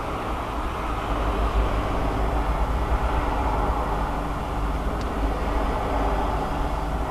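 Steady low droning rumble with several faint steady tones in it, swelling slightly about a second in, picked up by a mobile phone held out of an apartment window. The uploader presents it as one of the unexplained 'strange sounds' heard over the city.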